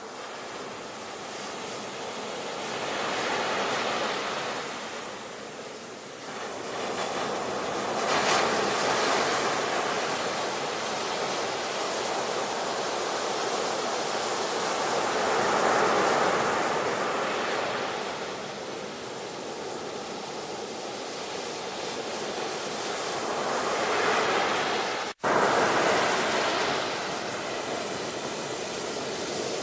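Ocean surf: waves breaking and washing in, the rush swelling and easing every few seconds, with a momentary dropout about 25 seconds in.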